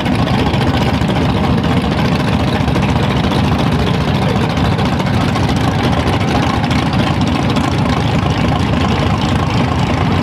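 Twin-turbo LSX V8 in a Mustang idling loudly and steadily, with no revving.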